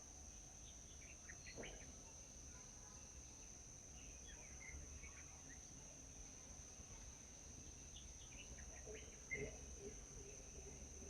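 Faint morning ambience: a steady high-pitched insect drone, with scattered short bird chirps in small clusters, a few about a second in and more near the end.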